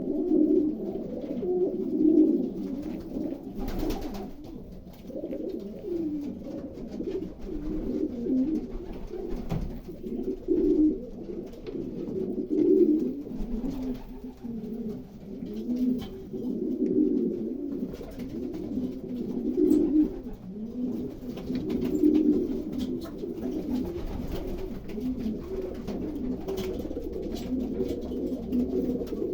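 Domestic pigeons cooing continuously in a loft, several birds' low rolling coos overlapping, with a couple of brief clicks.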